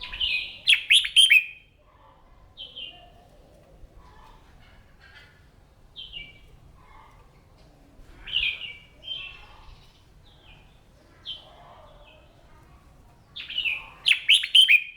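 Red-whiskered bulbul singing: a loud burst of quick warbled phrases at the start and again near the end, with short, quieter notes in between.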